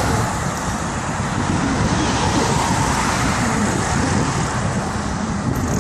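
Steady rushing road and wind noise on a phone microphone while riding a bike.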